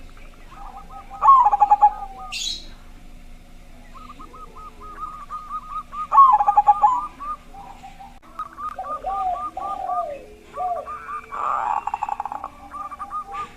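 Zebra doves (perkutut) cooing: trains of short, quick notes, with louder coos about a second in and again about six seconds in, and overlapping phrases at different pitches from more than one bird.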